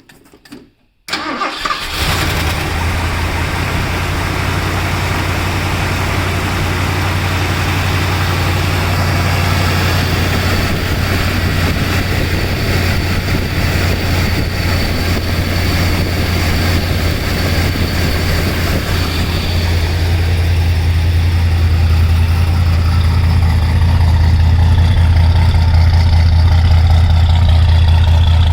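Cold start of a 1968 Ford Thunderbird's freshly rebuilt 429 V8 with headers, after sitting several days in freezing weather: the engine fires about a second in and settles into a steady idle, growing slightly louder over the half-minute.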